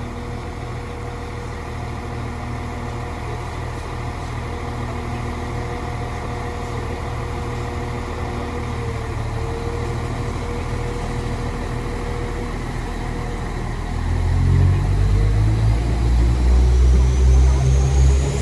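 Class 195 diesel multiple unit running at the platform with a steady engine hum. About fourteen seconds in its engines open up louder as it pulls away, and a thin rising whine follows near the end.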